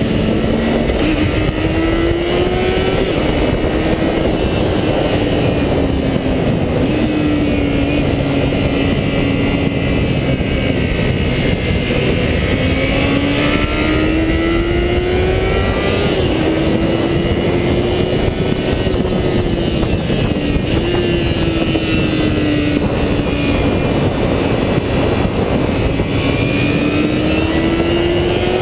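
A 400cc sport motorcycle engine held at high revs. Its pitch climbs slowly and drops back several times, as at gear shifts, under a loud rush of wind and road noise.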